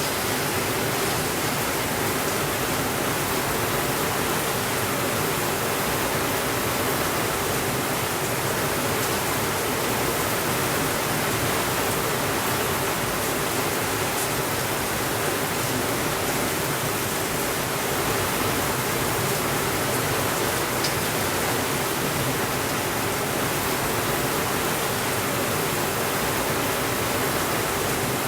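Steady rainfall, a dense, even hiss with no thunder and no change in level.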